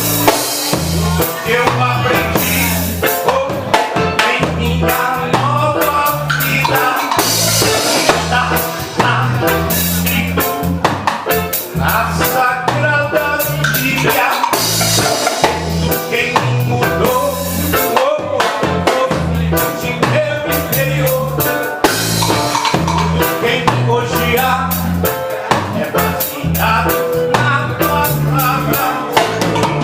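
Live reggae band playing an instrumental passage: a repeating bass line under a steady drum-kit groove.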